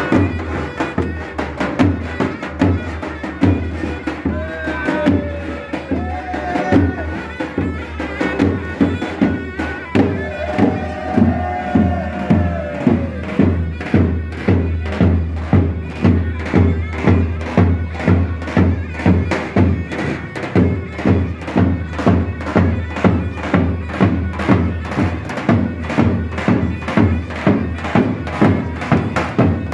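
Traditional folk music: a reedy wind-instrument melody over a steady, regular drum beat that grows stronger about halfway through.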